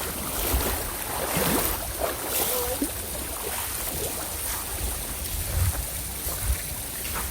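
Wind rumbling on the microphone over a steady rushing outdoor noise.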